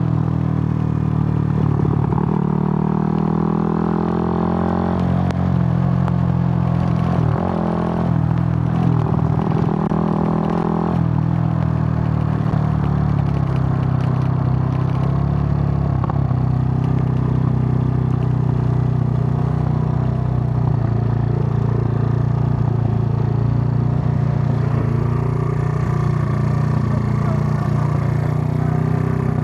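Suzuki GN125's single-cylinder four-stroke engine running under way. Its note rises and falls with several short dips in the first half, then holds a steady pitch while cruising.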